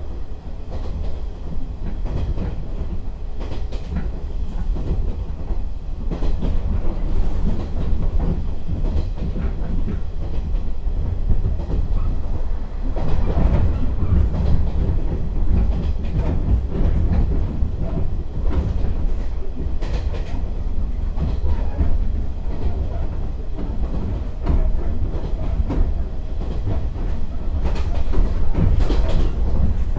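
Inside a JR 115-series electric train's KuHa 115-550 driving trailer, near the car end, running at line speed: a steady low rumble of wheels on rail, with rail-joint clicks and the rattling bogie typical of this car type. It grows a little louder around the middle and again near the end.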